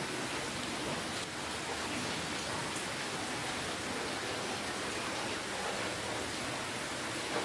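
Steady rainfall, an even hiss of rain with faint patter and no let-up.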